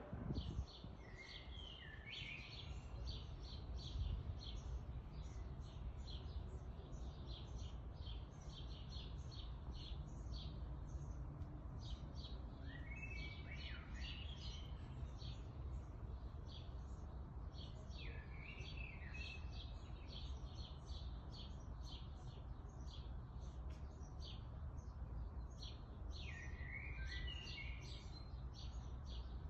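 Outdoor birdsong: quick, repeated high chirps with a short warbled phrase every several seconds, over a steady low rumble of background noise.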